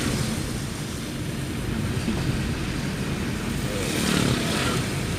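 Steady running noise of a road vehicle on the move, a low rumble with road and wind noise.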